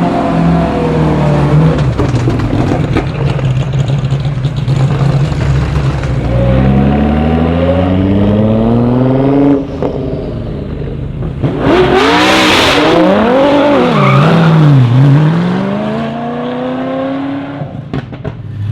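Brabham BT62's 5.4-litre V8 running hard. The engine note climbs steadily for a few seconds and breaks off near the middle, then swings quickly up and down in pitch several times before rising again near the end.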